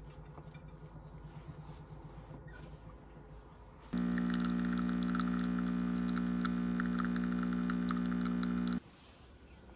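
An electric appliance motor runs with a steady hum for about five seconds, switched on abruptly about four seconds in and cut off just as suddenly near the end; before it only a faint low hum.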